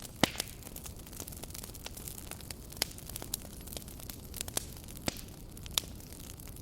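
Campfire burning with a steady low hiss and irregular sharp crackles and pops of burning wood, the loudest pop about a quarter second in.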